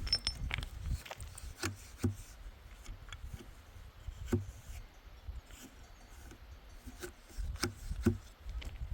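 Scattered light knocks and clicks, irregular and spaced a second or more apart, over a low rumble.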